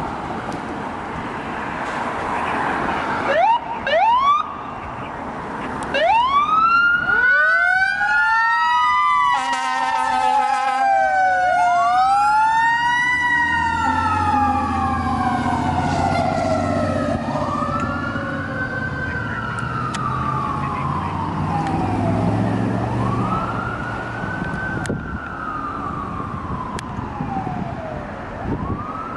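Fire engine sirens: a few short rising whoops, then several overlapping sirens rising and falling, with a rapid pulsing stretch. They settle into slow wails, each rising and then sliding down over several seconds, with a low engine rumble underneath.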